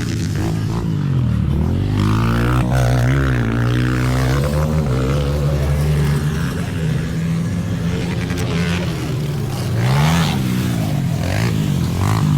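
Several small pit bike engines revving up and easing off, their pitches rising, falling and crossing one another.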